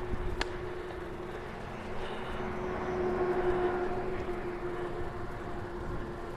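Bicycle riding on a gravel railway-bed trail: tyre and wind rumble on the action camera with a steady hum running under it, and one sharp click about half a second in.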